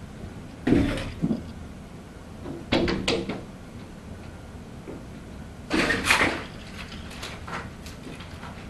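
A cat's paws striking and rattling a glass door, in three bouts of sharp knocks about a second in, about three seconds in and about six seconds in.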